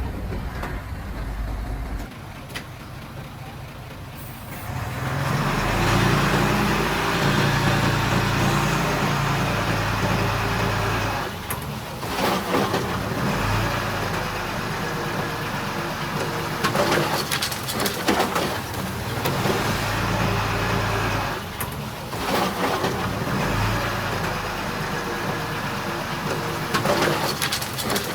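Diesel engines of heavy earthmoving machinery, a bulldozer and dump trucks, running under load. The engine noise rises about five seconds in, with short rattling bursts now and then.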